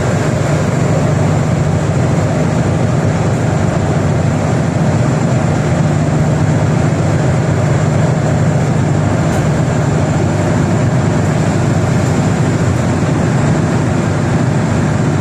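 Steady, unbroken drone of a vehicle engine and travel noise heard from on board, strongest low down, with a faint high whine above it.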